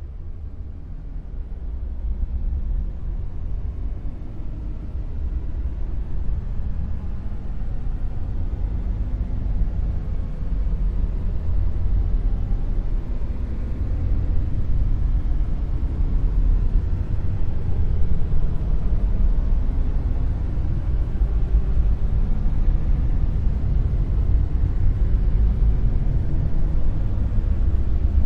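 Dark noise: a steady, deep rumbling hiss with nearly all its weight at the very bottom and little treble. It slowly grows louder over the first half.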